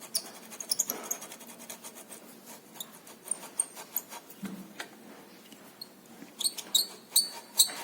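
Renault Sandero steering column bearing squeaking: a string of short, high, irregular chirps and clicks. The mechanic takes it for a dry bearing lacking lubrication.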